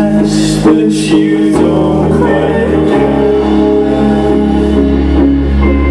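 A live rock band playing loud amplified guitars over a steady bass, with two bright hissy hits in the first second.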